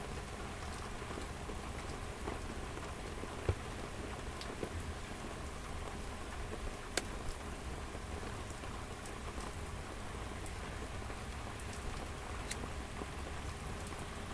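Steady rain falling, with a few sharp ticks of drops striking close to the microphone.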